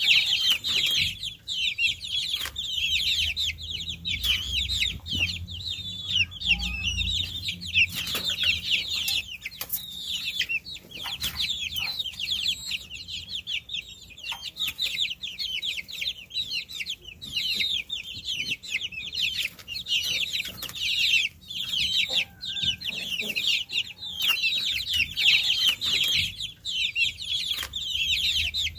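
A group of baby chicks peeping continuously, many high-pitched downward-sweeping chirps overlapping, with brief lulls.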